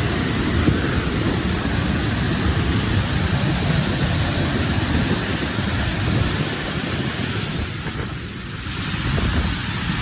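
Waterfall rushing steadily up close. The rush eases briefly about eight seconds in.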